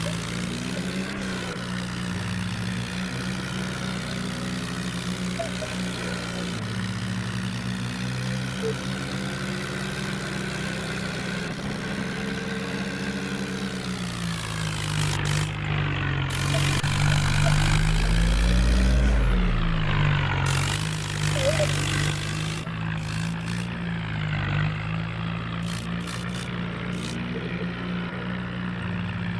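Mahindra tractor's diesel engine running steadily, revving up and getting louder for a few seconds about halfway through, then dropping back.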